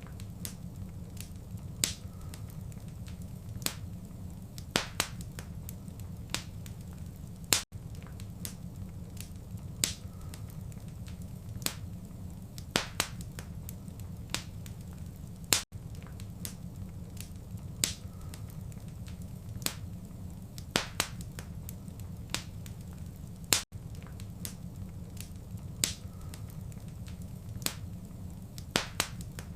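Wood fire in a fireplace crackling, with sharp irregular pops and snaps over a steady low rumble. The sound drops out briefly about every eight seconds.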